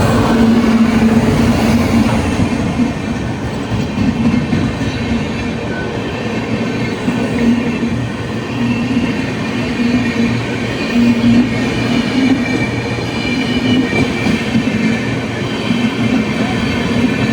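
A train running past on the line: a loud, steady rumble of wheels on track that goes on without a break.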